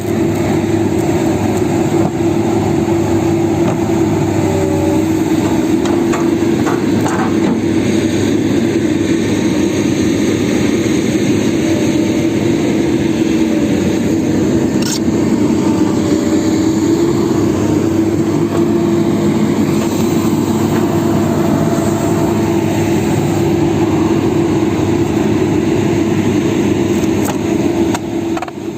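Excavator's diesel engine running steadily during track refitting, with a few faint metallic clicks.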